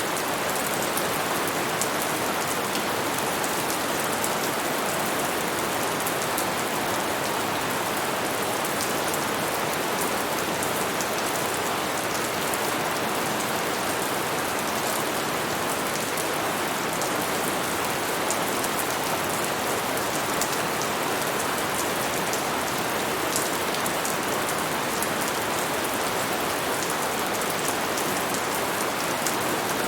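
Steady rain falling, an even hiss with fine scattered drop ticks and no swells or thunder.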